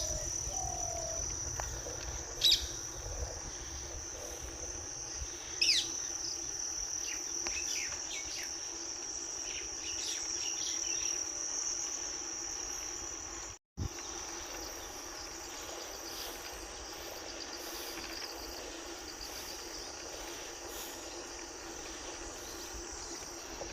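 Insects chirring in one steady high tone, with a few short, sharp bird calls in the first half and a low rumble underneath. The sound cuts out for an instant about halfway.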